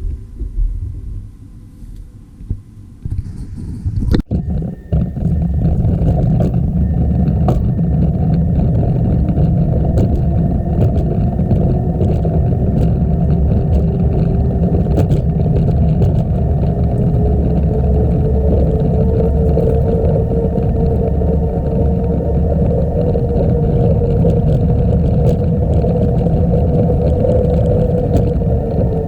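Wind rushing over the microphone of a camera on a moving bicycle, a loud steady rumble that sets in after a sharp click about four seconds in. A faint hum rises slowly and falls off near the end.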